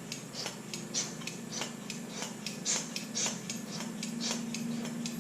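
Hand pump of a cooling-system pressure tester worked in quick, even strokes, about three a second, each a short hiss, pressurizing the radiator to push coolant past a suspected blown head gasket. A steady low hum runs underneath.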